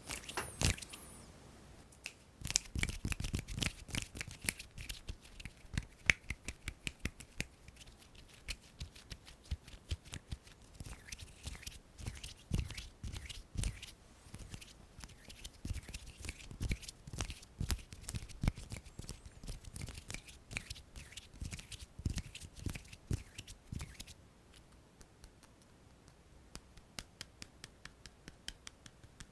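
ASMR hand sounds: fingers and palms tapping, rubbing and clicking in a rapid, irregular run of short taps, turning fainter and quicker, more even ticks near the end.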